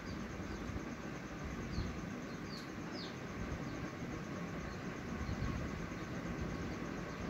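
Steady background noise with a few short, high falling chirps from a small bird, three of them in quick succession about two and a half seconds in.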